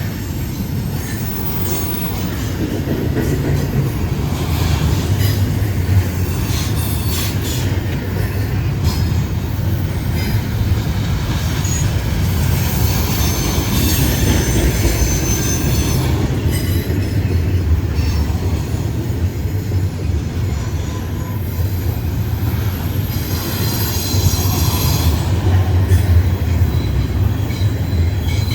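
Freight train cars rolling past: a steady low rumble, with steel wheels squealing high against the rails on and off and scattered clicks of wheels over rail joints.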